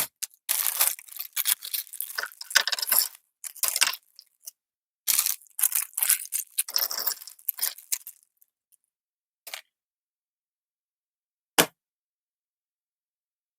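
Lego set packaging being handled: a run of crackling, rustling and tearing, like a box and plastic parts bags being opened. It stops about eight seconds in and is followed by two short clicks, the second sharper.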